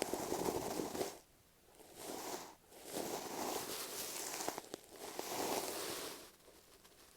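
Masking tape stuck on an earphone microphone being scratched or rubbed in long, noisy strokes, four of them with short pauses between, close up in the microphone.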